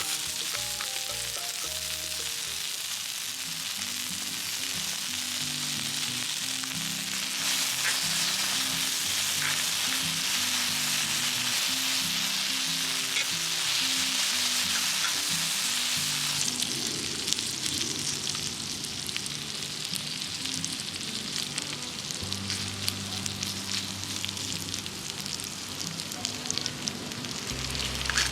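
Food frying in fat on a hot griddle pan: a steady sizzle with scattered crackles, fading somewhat past the middle into sparser crackling, over background music.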